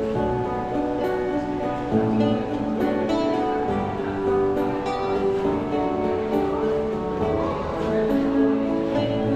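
Live acoustic music from a street musician on a plucked string instrument, with notes and chords changing steadily.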